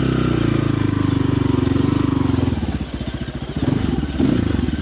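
Small gas dirt bike engine running at low speed. It holds a steady throttle, eases off about halfway through, then picks up again near the end.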